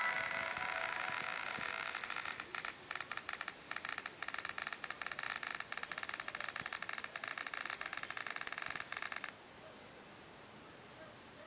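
Lenovo S10-3 netbook's hard disk making a harsh buzzing, whining noise that breaks into rapid stuttering chatter, then cuts off suddenly about two seconds before the end. It is the noise that the laptop makes each time it accesses the disk, only a month into use.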